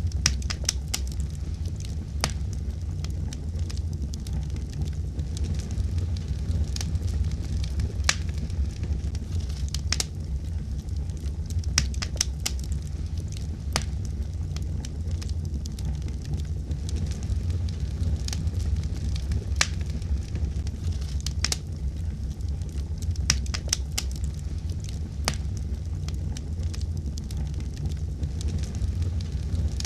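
Wood fire burning in a fireplace: a steady low rumble of flames with irregular sharp crackles and pops, a few each second at most.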